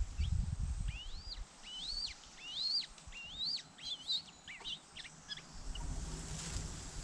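A bird calling a run of high whistled notes, each rising and then falling, about two a second, breaking into shorter notes about halfway through. A low rumble lies under the opening second and returns near the end.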